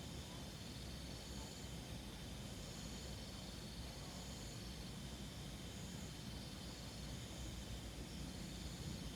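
Night insects trilling, a high-pitched chorus that swells and fades in repeated bouts of a second or two, over a steady low rumble.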